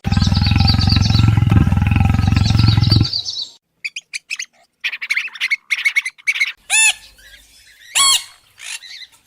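A loud, low, steady rumble with chirps over it lasting about three seconds, then bird calls: scattered short chirps and, near the end, two loud calls that rise and fall in pitch.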